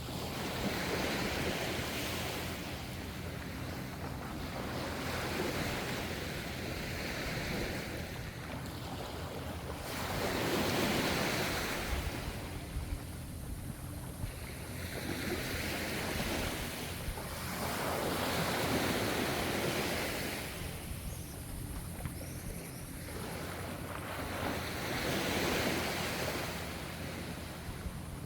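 Ocean waves washing in on the shore, a surge of surf rising and falling away every three or four seconds over a steady wash.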